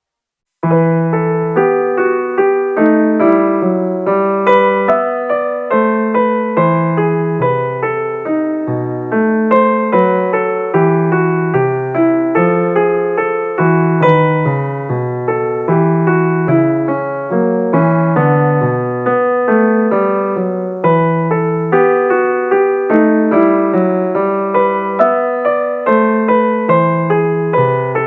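Background music played on piano or electric piano: a steady flow of repeated notes over a low bass line, starting about half a second in.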